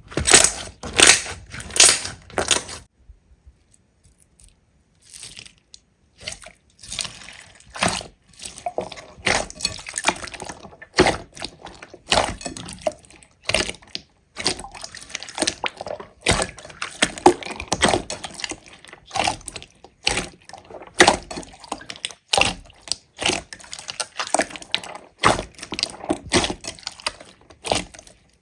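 Slime being squeezed and poked by hand: wet squishes and irregular sharp clicking pops, with a short quiet pause about three seconds in.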